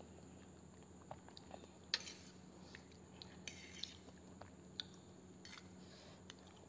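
Faint chewing and mouth sounds of someone eating Knorr soupy instant noodles, with scattered small clicks and taps as a fork twirls noodles in a bowl. The sharpest click comes about two seconds in.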